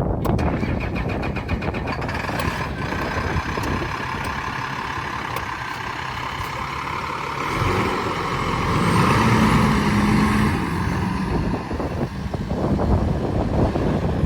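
International semi truck's engine running, getting louder and carrying a steady low hum from about eight to eleven seconds in.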